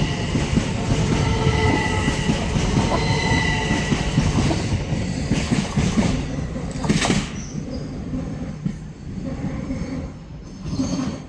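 Class 375 Electrostar electric multiple unit running through the station, its wheels squealing in steady thin tones over the rumble of the train. A short hiss comes about seven seconds in, and the sound dies away after about eight seconds as the train moves off.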